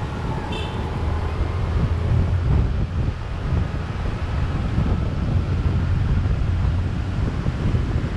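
Wind buffeting the microphone of a camera on a moving motorbike, a steady low rumble over the sound of the bike and the surrounding street traffic.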